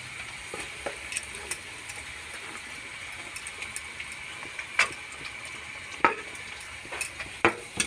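Onions and green chillies sizzling steadily in hot oil in a kadhai (wok) as chopped capsicum is added. Four sharp clicks of a metal spatula against the pan come in the second half.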